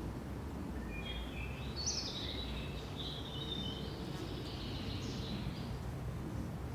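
Songbirds singing over a steady low background rumble: a run of short high notes and trills starts about a second in and fades out after about five seconds.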